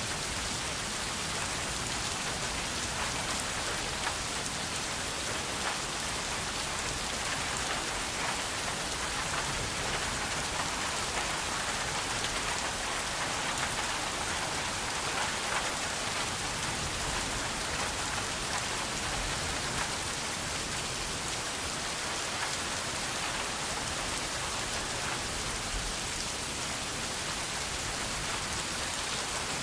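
Steady rain falling, a dense even patter of many small drop hits.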